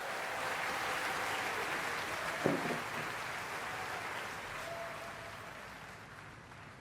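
Applause that slowly dies away, with a short voice sound about two and a half seconds in.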